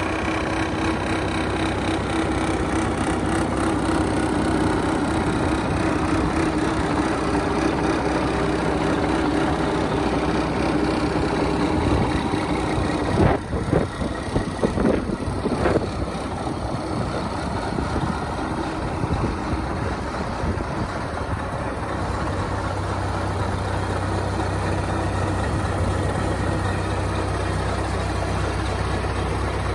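Scania 450 truck's diesel engine running steadily, with a short cluster of knocks and clatters about halfway through.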